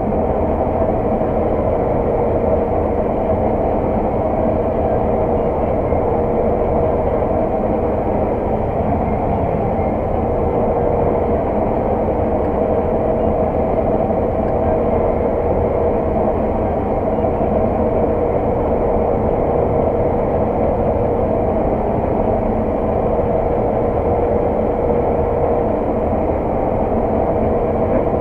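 Claas Lexion 600 TerraTrac combine harvester running steadily while combining oilseed rape, heard from inside the cab: an even drone of engine and threshing machinery with a constant hum.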